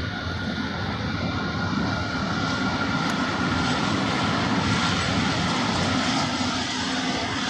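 Train hauled by a Class 189 electric locomotive approaching, a steady rushing rumble that grows slowly louder, with a faint steady whine above it.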